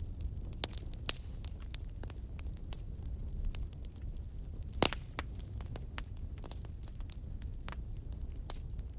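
Wood fire crackling in a fireplace: a steady low rumble of burning with irregular sharp pops and snaps, the loudest pop about halfway through.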